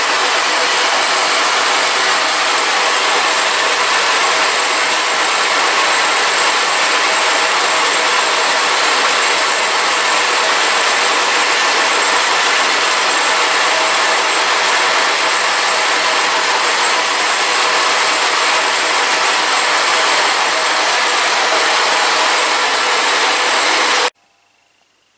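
A workshop machine running steadily with a dense hiss and several faint steady whines, cutting off abruptly near the end.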